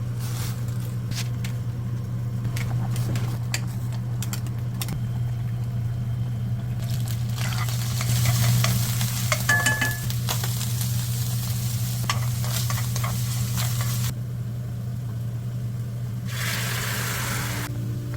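Food sizzling and frying in a pan, with scattered utensil clicks in the first few seconds and louder spells of sizzling from about seven to fourteen seconds in and again near the end. A steady low hum runs underneath.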